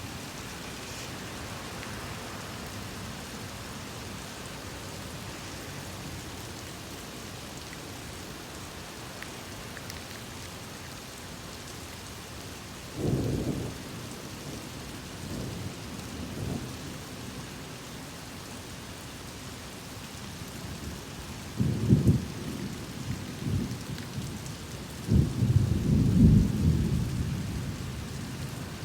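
Steady rain falling through a thunderstorm, with rolls of thunder rumbling in the second half. A short rumble comes about halfway through, more follow, and the loudest and longest roll comes near the end.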